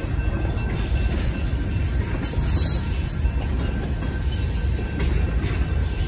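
Freight train of boxcars rolling steadily through a grade crossing, a constant low rumble of wheels on rail.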